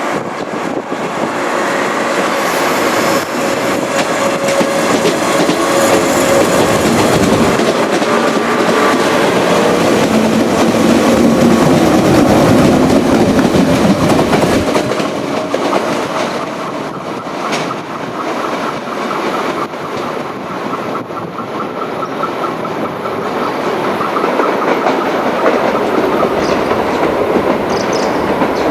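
Electric local trains, a 413 series and a 521 series, pulling out of the station: motor and running noise builds to a peak about twelve seconds in, then eases, with wheels clattering over rail joints.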